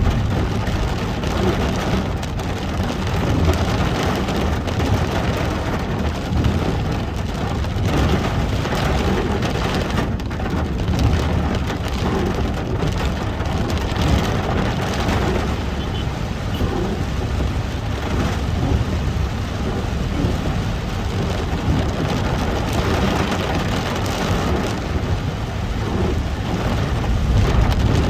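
Heavy rain pattering steadily on a moving car, over the low rumble of the car and its tyres on the wet road.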